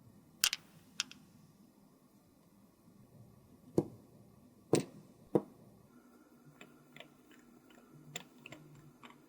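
Sharp clicks and taps of makeup containers and tools being handled, about five loud ones spread over the first five and a half seconds, then a run of lighter, quicker ticks from about six and a half seconds in.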